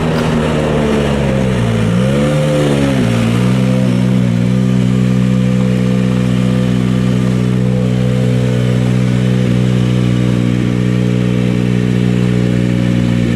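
Rally car engine revving: the pitch dips and rises twice in the first few seconds, then it holds at steady revs.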